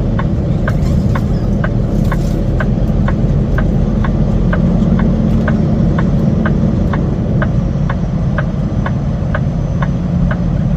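Semi truck's diesel engine running steadily at low revs, with a rapid, even ticking of about three ticks a second over it.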